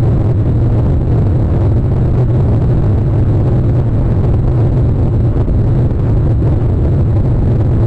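Steady low rumble, even and unbroken, with no distinct calls or knocks.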